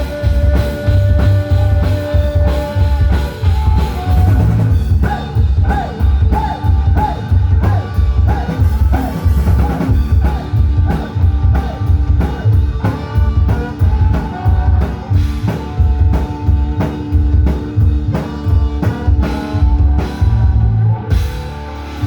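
Loud rock music with the drum kit keeping a steady beat under guitar.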